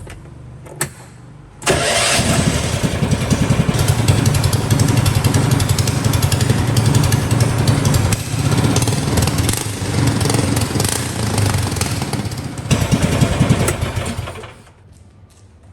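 A small combustion engine starts abruptly about two seconds in, runs loudly with a low pulsing rumble for about twelve seconds, then cuts out near the end. A few sharp clicks come just before it starts.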